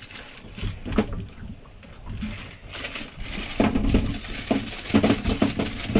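Irregular knocks, clicks and clatter of things being handled, with a run of heavier thumps in the second half.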